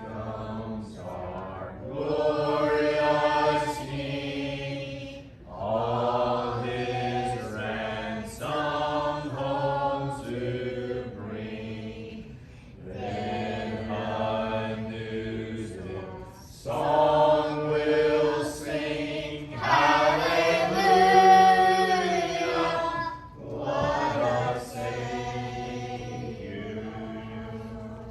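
Congregation singing a hymn a cappella, men's and women's voices together without instruments, in phrases with held notes. The longest and loudest note comes about three-quarters of the way through, and the singing stops at the very end.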